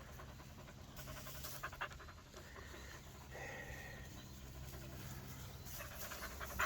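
A puppy panting quickly in short, rhythmic breaths, faint.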